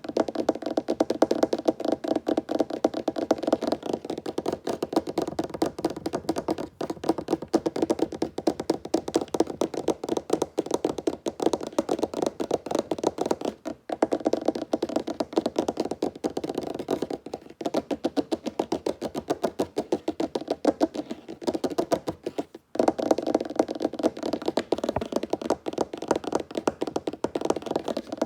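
Fast fingertip tapping on a wooden tabletop: dense, rapid taps with a hollow wooden knock, broken by brief pauses about halfway through and again a little later.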